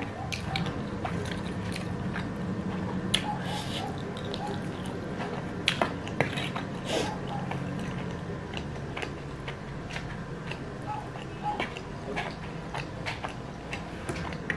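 Close-up eating sounds: noodles slurped off a fork, then chewed with many wet mouth clicks and smacks. A steady low hum runs underneath.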